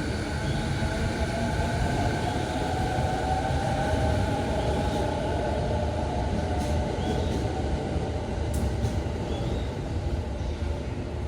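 Electric commuter train running along the track: a continuous rumble of wheels on rails, with a steady motor whine that drifts slightly in pitch through the middle.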